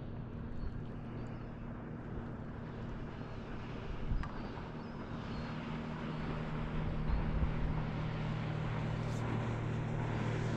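Boat engine humming steadily over water and wind noise, growing louder over the second half, with a small click about four seconds in.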